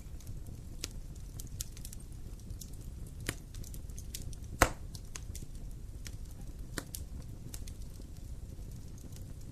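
Wood campfire crackling: scattered sharp pops over a steady low rumble, with one loud pop about halfway through.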